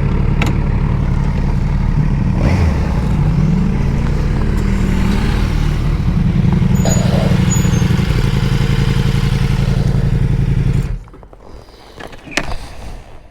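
Motorcycle engine running at low revs while being parked, the revs rising and falling briefly about three seconds in, then switched off about eleven seconds in. A few light clicks follow.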